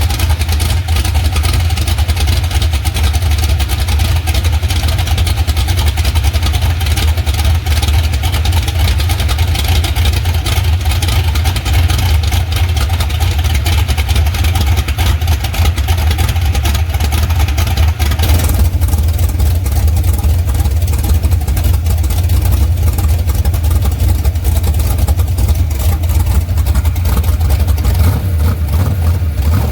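Twin-turbo 470-cubic-inch stroked big-block V8 running steadily with a heavy low rumble. The hiss over it drops away about two thirds of the way through.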